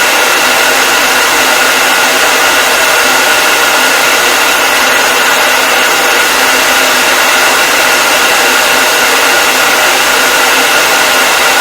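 Hair dryer running steadily: a constant rush of air with a fan-motor whine held on a few fixed pitches, with no change in speed.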